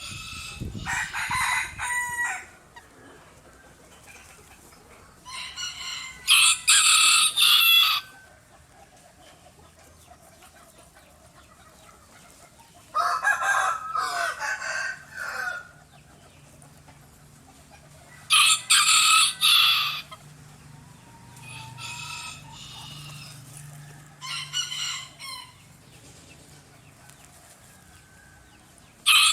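Bantam (Garnisé) rooster crowing repeatedly: about six crows a few seconds apart, a couple of them fainter.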